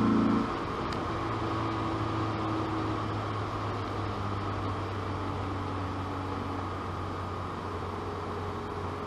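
Opel Kadett C Coupe's 2.0-litre CIH four-cylinder engine running steadily while driving, heard from inside the cabin along with road noise. There is a brief louder swell right at the start.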